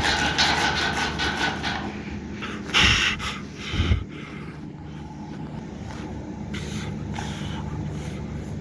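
A run of quick rasping strokes, then a loud scrape and a knock about a second apart, followed by a steady low hum.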